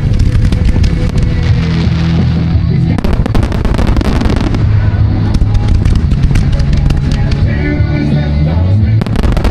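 Music with sustained bass notes playing over fireworks, with many sharp bangs and crackles going off through it, thickest in the second half.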